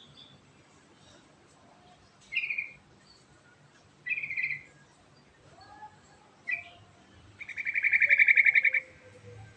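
Yellow-vented bulbul (trucukan) singing: a few short, clear notes a couple of seconds apart, then a fast rolling trill lasting about a second and a half near the end, the loudest part.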